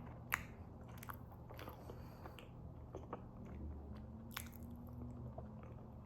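Close-miked mouth sounds of eating fufu and goat meat: wet chewing and biting with scattered sharp clicks. The loudest click comes a little way in, and another comes just past two-thirds of the way through.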